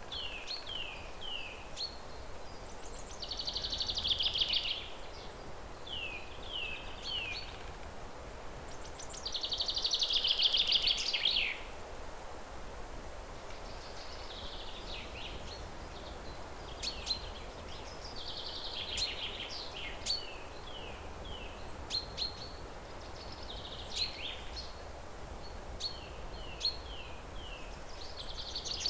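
Songbirds singing: groups of three short, quick downward-sliding notes alternating with longer trilled phrases of a second or two, the loudest about ten seconds in, over a steady low outdoor background noise.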